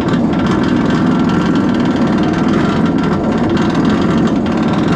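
Steel roller coaster train being hauled up the chain lift hill: a steady, loud mechanical clatter with rapid ticking.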